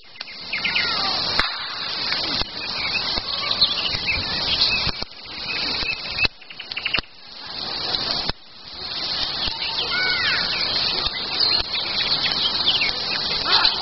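Wild birds chirping and singing over a dense rustling noise. The noise stops and starts abruptly several times.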